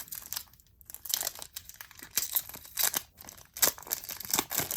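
Plastic wrapper of a trading card pack crinkling and tearing as it is ripped open by hand, in a run of irregular crackles.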